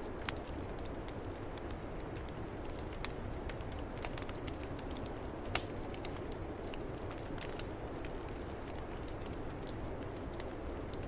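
Wood fire crackling and popping in a fireplace, scattered sharp snaps over a steady low roar of snowstorm wind. One louder pop comes about five and a half seconds in.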